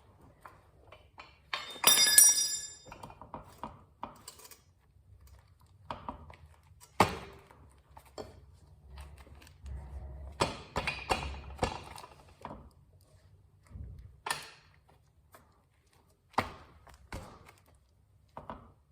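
Metal parts of a motorcycle rear wheel assembly knocking and clinking as they are worked into place. It is a series of separate knocks and clanks, the loudest a ringing metallic clink about two seconds in.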